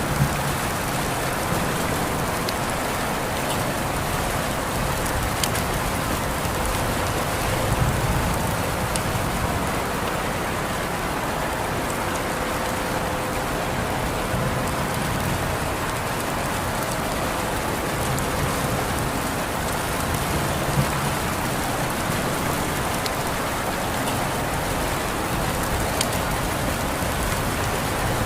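Steady rain falling and pattering on surfaces, with occasional single drops ticking.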